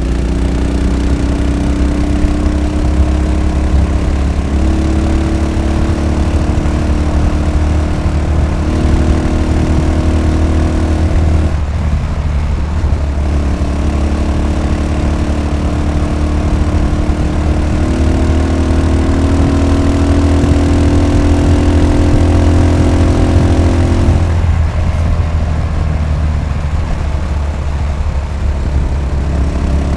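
Yamaha SR500's air-cooled single-cylinder four-stroke engine thumping under way, its pitch stepping up and down with gear changes and throttle. The engine note eases off twice when the throttle closes: briefly about twelve seconds in and again for several seconds near the end.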